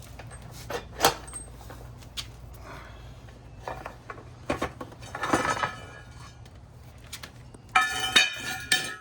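Metal tools and motorcycle parts clinking and knocking, a scatter of sharp strikes, with a quick cluster of ringing metallic clanks near the end.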